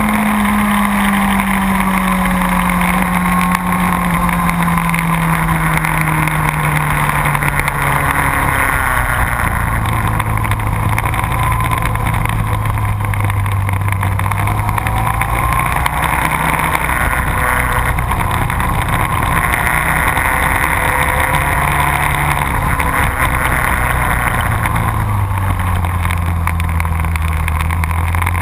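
Sport motorcycle engine running on a race track over a constant rush of wind noise. The engine note falls steadily over the first several seconds, then rises and falls gently a few times and drops again near the end.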